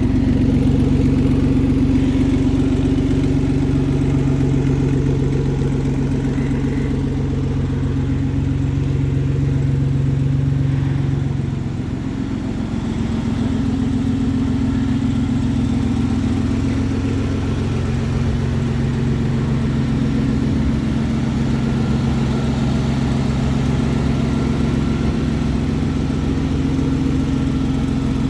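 1994 Toyota Land Cruiser 80 Series engine idling steadily just after a cold start, through side-exit exhaust pipes. The sound dips slightly and changes a little about twelve seconds in.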